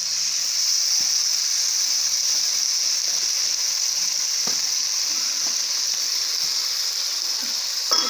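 Small fish and spices sizzling steadily in hot oil in a wok, with a few light knocks, the sharpest near the end.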